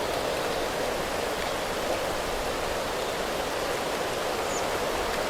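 Steady hiss of rain, an even noise with no single drops or knocks standing out.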